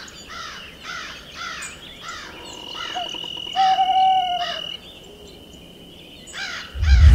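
A bird calling over and over, about two calls a second. Midway a steady high tone and a lower tone that falls away sound over it, and just before the end a loud rushing boom begins.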